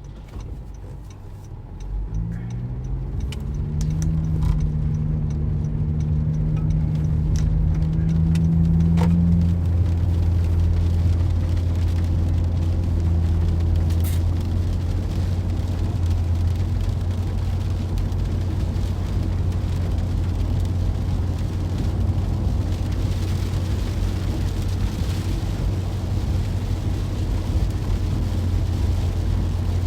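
Car engine and road noise from inside a moving car: the engine note rises about two seconds in, holds for several seconds, then gives way to a steady low drone, with a few brief clicks.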